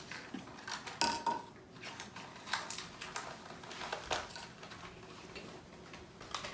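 Small parts and packaging being handled while a small box of garbage disposal accessories is unpacked: scattered light clicks and knocks, the sharpest about a second in and others around two and a half and four seconds in.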